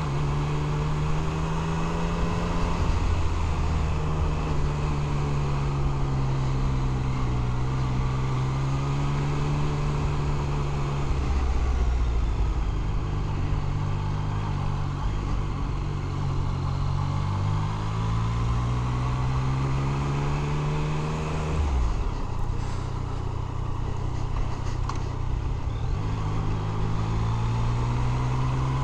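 Yamaha FZ-09's three-cylinder engine running on the move, its pitch rising and falling several times with the throttle and dropping suddenly about three-quarters of the way through.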